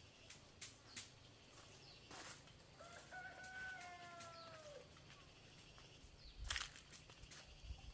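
A rooster crowing once, a single drawn-out call of about two seconds that falls away at the end. Scattered light taps and knocks around it, the loudest about six and a half seconds in.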